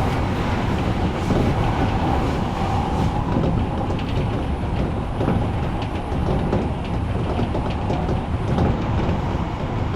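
Odakyu electric commuter train running along the track: a steady rumble of wheels on rail, with repeated clicks from the rail joints.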